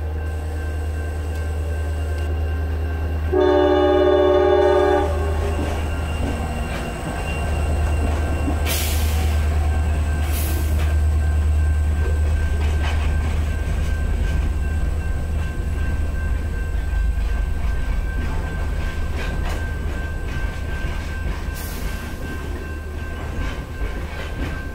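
Horn of a CSX GP40-2 diesel locomotive: the end of one blast right at the start, then one chord blast of about a second and a half about three seconds in. After that comes the rumble of the locomotive going by and a freight train of tank cars and covered hoppers rolling past, wheels clattering over the rails.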